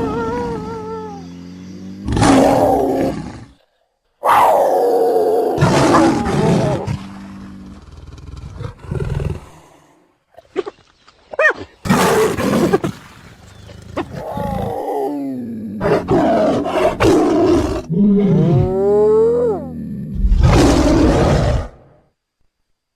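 Chupacabra creature sound effects: a string of separate roars, growls and snarls with short silences between them.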